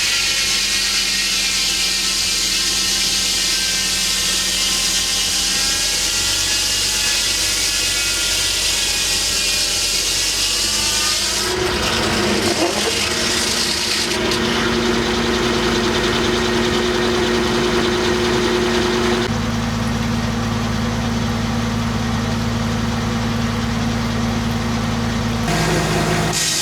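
Homemade circular sawmill running with its engine under steady power, the blade cutting through a large white pine log. The sound shifts abruptly several times.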